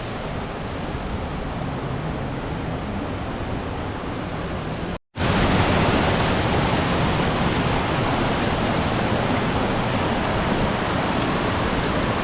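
Waterfall rushing steadily. The sound cuts out for a moment about five seconds in and comes back louder.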